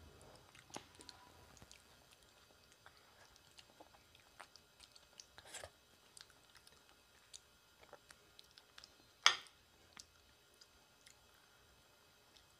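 Quiet chewing and soft mouth sounds of someone eating rice and curry by hand, with scattered small clicks and one sharp click about nine seconds in.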